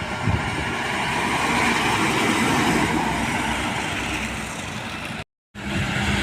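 Heavy road vehicles running past, with steady engine and tyre noise, cut off by a brief total silence a little after five seconds in before resuming.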